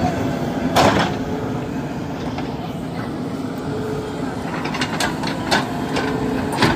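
JCB 3DX backhoe loader's diesel engine running steadily, with a few sharp knocks about a second in and near the end.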